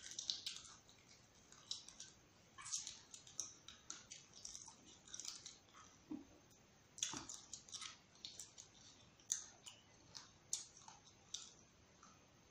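A person chewing seafood, mouth closed, heard up close: faint, irregular wet clicks and smacks of the mouth, one or two a second.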